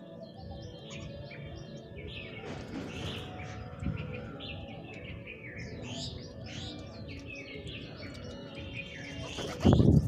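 Birds chirping and calling: many short, high chirps one after another. A loud thump about a second before the end.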